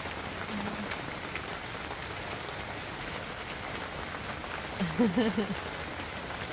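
Steady rain falling: an even hiss with scattered light ticks. A short voice sound about five seconds in.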